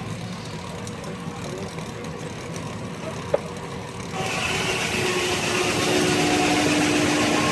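Steam traction engine running as it drives a sawmill, a steady low rumble with one sharp click a little over three seconds in. About four seconds in, a louder rushing sound with a steady whine suddenly joins and keeps going.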